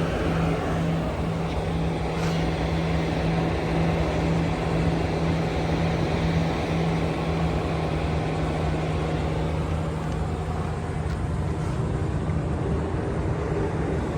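Steady mechanical hum with a constant low drone and rumble, the drone fading near the end.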